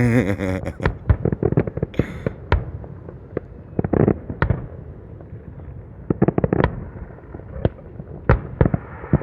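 Fireworks going off: many sharp bangs and pops at irregular intervals, with a quick cluster of cracks around six seconds in.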